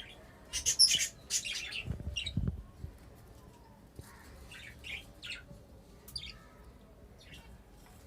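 Pet budgerigars and cockatiels in an aviary chirping in short, sharp bursts, loudest in a cluster about a second in, then scattered chirps. A couple of low bumps come around two seconds in.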